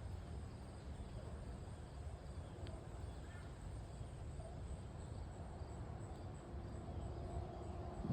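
Steady rain falling under a low rumble, with a faint high-pitched insect trill pulsing evenly in the background.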